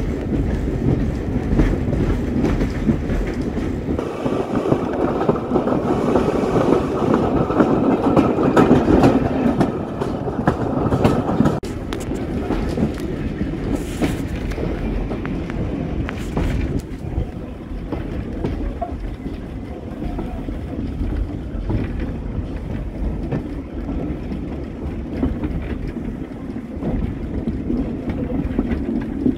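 Railway carriage running along the track, heard from the carriage window: a steady rumble of wheels on rail with repeated clicks over the rail joints. The noise drops noticeably about twelve seconds in.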